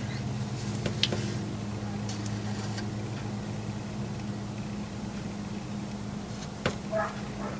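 A steady low hum, with a few light clicks and knocks: one about a second in and a couple near the end.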